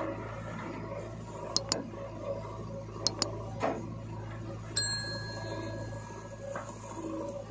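Machine engine running steadily, with several sharp metallic clinks and a high ringing tone held for nearly two seconds about five seconds in.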